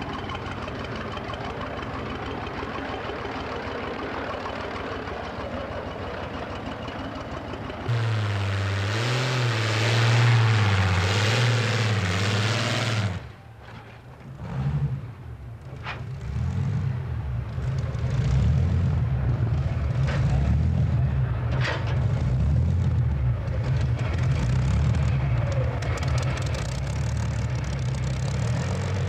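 Pulling tractor's engine running hard, with revs rising and falling. About eight seconds in it gets louder with a wavering pitch, drops away suddenly about five seconds later, then comes back, running unevenly.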